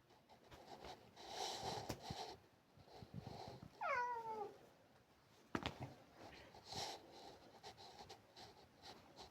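A cat gives one short meow about four seconds in, falling in pitch as it goes. Faint scratchy rustling comes and goes around it, and a sharp click follows shortly after the meow.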